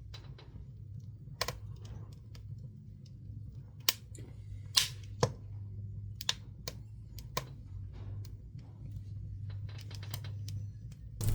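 Pine woodworking offcuts burning in a wood stove, crackling with irregular sharp pops, the loudest of them clustered about four to five seconds in.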